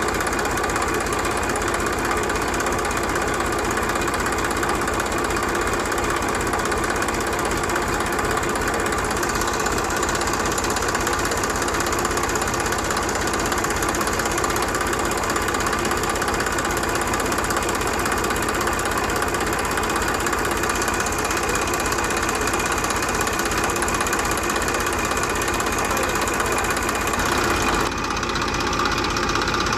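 Small motor of a homemade mini tractor running steadily with a continuous mechanical whine, its sound changing abruptly near the end.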